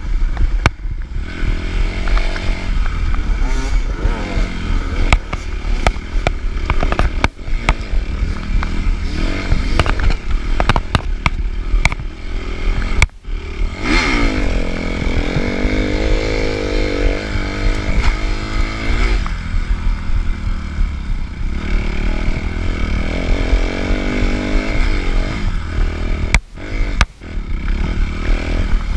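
Suzuki RM-Z 250 dirt bike's four-stroke single-cylinder engine revving hard under race load, its pitch rising and falling with throttle and gear changes, with frequent sharp knocks and clatter. The engine briefly drops off twice, about halfway and near the end.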